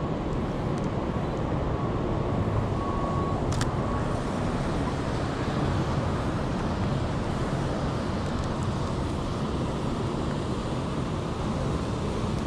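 Steady city street noise, a constant roar of traffic. A few short high beeps sound around two to three seconds in, and a sharp click comes just before four seconds.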